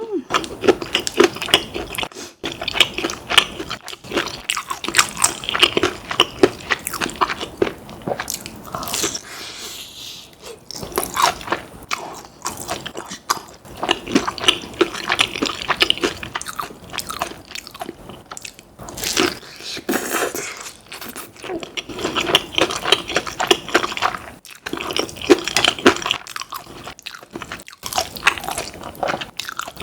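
Close-miked eating: crunchy bites and chewing of fried chicken, in repeated runs of crackling crunches with short pauses between mouthfuls.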